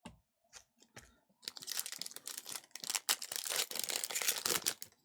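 Trading cards and their packaging being handled: a few light clicks, then about three and a half seconds of dense crinkling and rustling.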